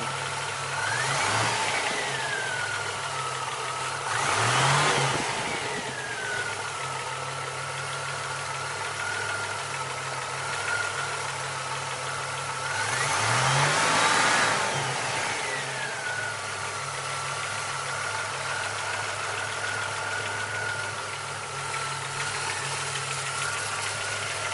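Buick Grand National's turbocharged 3.8 L V6, freshly rebuilt, idling and revved up and back down three times, with a weird knocking noise in the engine that the owner fears is a wrist pin; pulling the spark plug wires one at a time made no difference to it.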